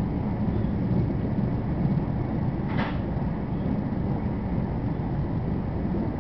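Steady low rumble of a high-speed bullet train running at speed, heard inside the passenger cabin, with a brief hiss about three seconds in.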